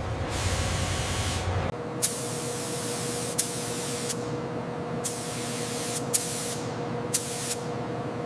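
Paint spray gun hissing in several separate bursts of a second or two each, some starting with a sharp click, over a steady faint hum.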